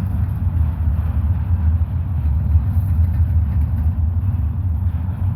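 Steady low vehicle rumble that holds level throughout, with no distinct clanks or horn.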